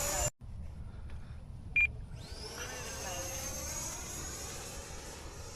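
FMS Rafale's 80 mm electric ducted fan spooling up with a rising whine, then held at a high, steady whine; a first spool-up cuts out abruptly just after the start. A short, sharp beep sounds just before the second spool-up, and gusty wind rumbles on the microphone throughout.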